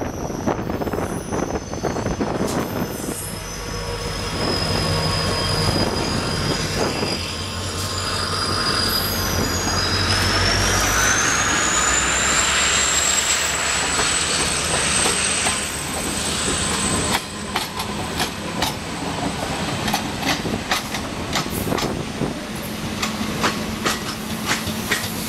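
Diesel-hauled train passing, with the locomotive's engine running low in the first half. A thin high squeal climbs in pitch about ten seconds in, and in the second half the wheels click over the rail joints as the coaches go by.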